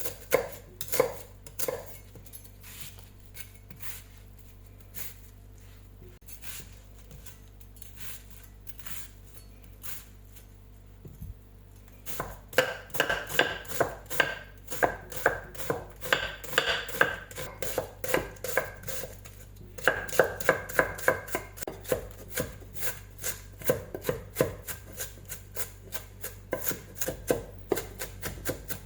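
Kitchen knife chopping onion on a cutting board, mincing it: a few strokes, a softer, sparser stretch, then quick regular chopping of about three to four strokes a second through the second half.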